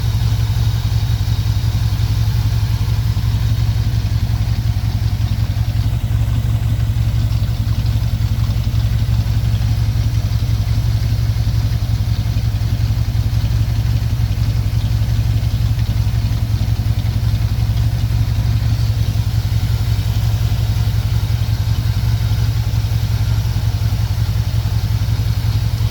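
1965 Chevrolet C10 pickup engine idling steadily with an even low hum.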